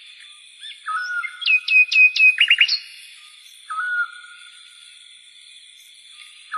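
Birds singing in the dark: a short whistled note that repeats about every three seconds, and about a second and a half in a run of four quick falling whistles followed by three rising chirps. A steady high-pitched whine runs underneath.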